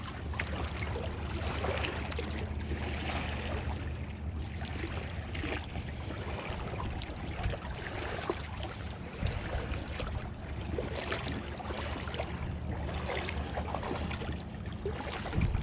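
Choppy river water lapping and splashing in the shallows, over a steady low hum.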